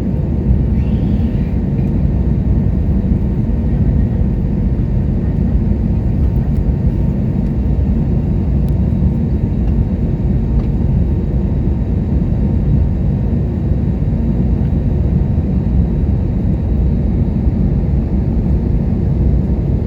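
Steady low roar of an airliner's engines and rushing air, heard from inside the passenger cabin in flight.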